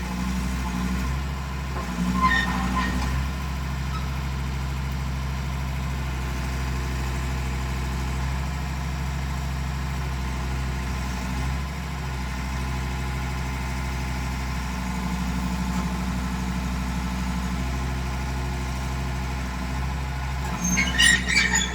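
Excavator's diesel engine running steadily, its note shifting a little as the load changes, with short metallic squeaks and knocks about two seconds in and again near the end.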